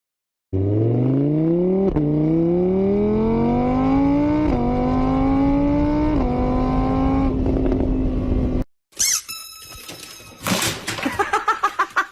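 A vehicle engine accelerating through the gears: its pitch climbs, drops back at each of three shifts, then holds steady before cutting off. A few seconds later come a run of sharp clicks and high squeaks.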